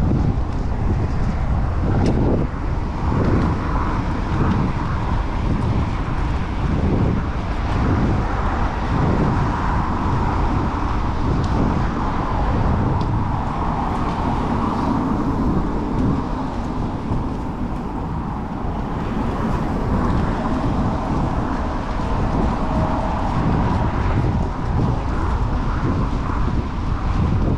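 Wind buffeting the microphone of a camera on a moving bicycle, mixed with city road traffic from passing cars.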